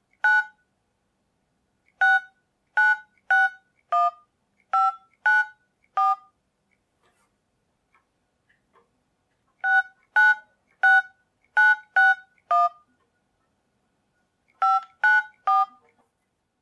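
Touch-tone telephone keypad dialing: short two-tone DTMF beeps, one per keypress, in three quick runs of keys with pauses of a few seconds between them, the pitch pair changing from key to key.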